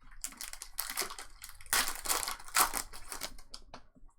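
Trading-card pack wrappers being torn open and crumpled: a run of crinkling rustles, loudest in the middle.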